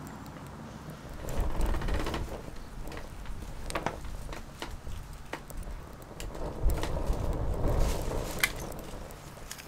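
Small wood fire crackling, with scattered sharp pops, and two stretches of low rumble, about a second in and again near the end.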